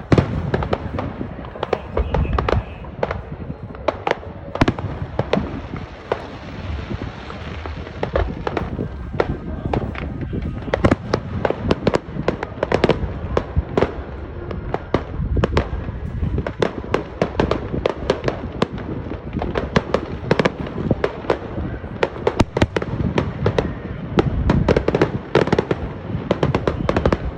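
Fireworks display going off without pause: a dense run of sharp bangs and crackles several times a second over a low rumbling boom.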